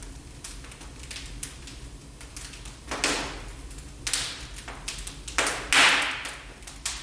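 Wood fire crackling in a fireplace: a steady run of small snaps over a low hum, with louder pops about three, four and six seconds in.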